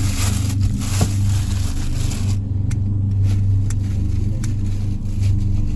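A small engine running steadily at constant speed, a low even hum, with a few light clicks over it.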